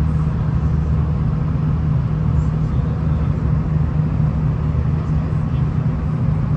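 V/Line VLocity diesel railcar running at speed, heard from on board: a steady low engine drone with an even rumble of wheels on the track.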